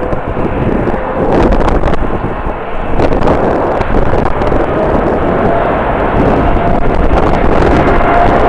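Strong wind buffeting the microphone over a jet airliner's engine noise, whose whine climbs slowly in pitch through the second half.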